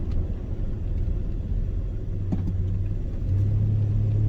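Low, steady road and engine rumble inside a moving car's cabin, with a drone that grows louder about three seconds in.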